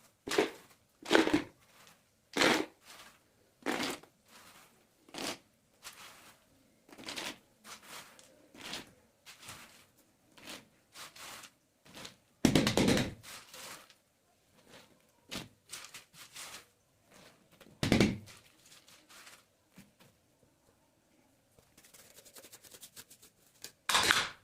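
Kitchen clatter: a run of irregular knocks and clunks as containers and utensils are handled and set down, with louder clunks about halfway through, a little later, and again near the end.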